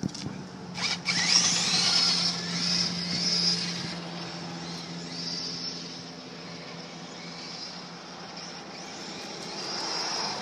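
Kyosho DMT VE electric RC monster truck driving on dry pavement. Its motor whine rises as it accelerates hard in the first few seconds, along with tyre noise. The sound then fades as the truck runs farther off and grows louder again near the end.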